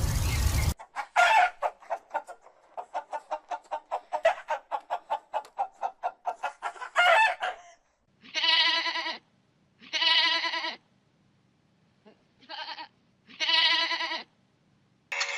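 Farm animal calls: a rapid run of clucking pulses that speeds up over about six seconds, then four separate wavering calls of about a second each, the third shorter.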